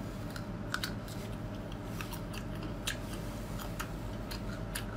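Crunchy chewing of crisp snake fruit (salak) flesh: scattered sharp clicks and crunches, over a steady low hum.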